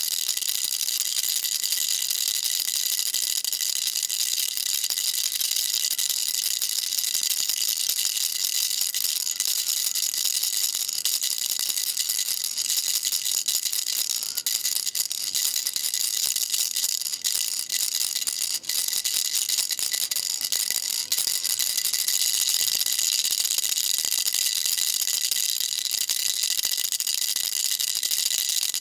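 Baby rattle shaken continuously, a dense, high rattle without pause that dips briefly a few times about halfway through.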